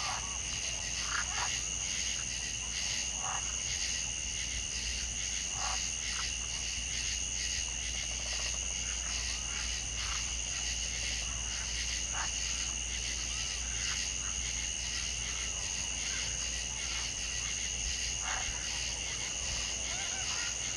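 A steady chorus of frogs calling in fast, pulsing trills at two high pitches, with short, lower calls breaking in every few seconds.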